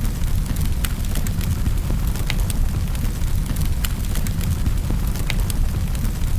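Wood fire burning in a fireplace: a steady low rumble with sharp crackles and pops scattered irregularly, about one a second.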